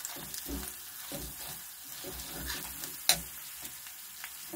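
Onion and spice masala sizzling in hot oil in a metal kadhai while a metal spatula stirs and scrapes it, with repeated short scrapes and one sharper clank of the spatula against the pan about three seconds in.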